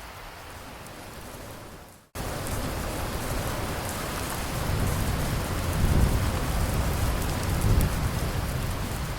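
Steady rain falling, fading and dropping out for an instant about two seconds in, then coming back louder. A low rumble of thunder swells through the second half, peaking twice.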